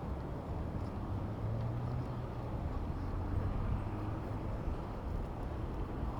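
Steady rumble of city traffic and moving air heard from a bicycle on the road, with a low engine-like hum swelling in the middle.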